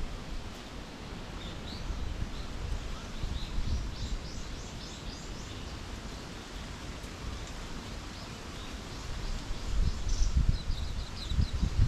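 Small songbirds chirping in quick runs of short, high notes, about four seconds in and again near the end, over a low rumble of wind on the microphone that swells near the end.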